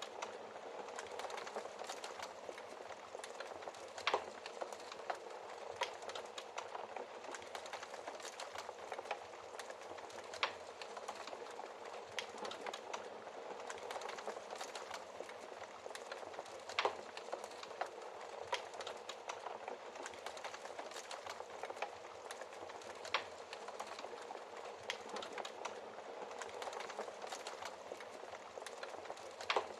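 Wood fire burning in a fireplace, crackling steadily with a soft hiss and frequent small snaps, and a handful of louder pops spread through.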